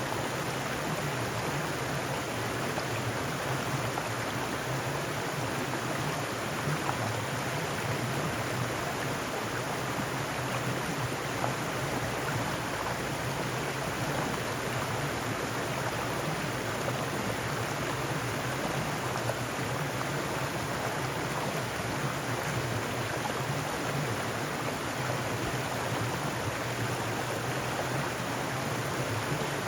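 Mountain stream rushing steadily over rocks, a constant even flow of water.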